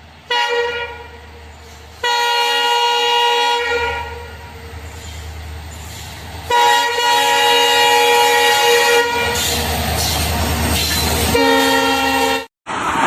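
Locomotive air horn sounding three blasts, the last one long, over the low rumble and rushing noise of a fast-running train. The sound cuts off sharply near the end.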